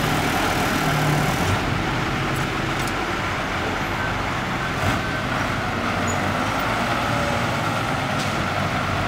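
Six-wheel dump truck's engine running steadily, with a few light clicks or knocks over it.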